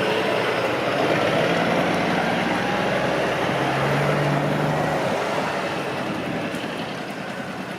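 A motor vehicle's engine running close by, with road noise, slowly fading over the last few seconds as it moves away.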